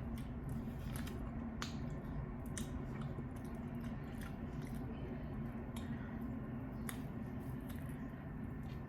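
Close-up mouth sounds of someone eating chicken wings: irregular wet smacks and clicks of chewing and biting over a steady low hum.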